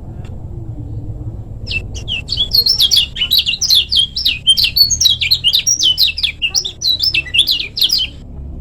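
Kecial kuning white-eye singing a fast, dense run of high chirping notes that starts about two seconds in and stops near the end, over a steady low rumble.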